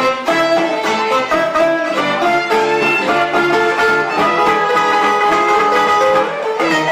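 A live band playing, with plucked strings under a melody of held notes that moves from note to note.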